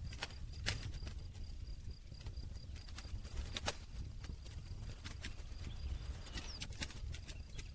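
Wood campfire crackling, with sharp irregular pops, loudest about two-thirds of a second in and again around the middle, over a low steady rumble.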